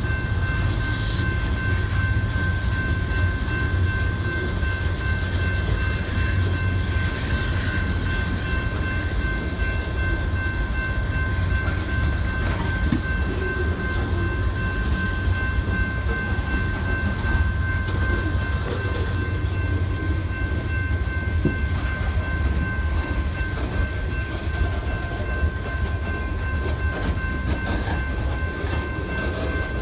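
A long CSX freight train of hopper and tank cars rolling past, with a steady low rumble of wheels on rail and scattered clicks over the rail joints. A steady high whine runs underneath it.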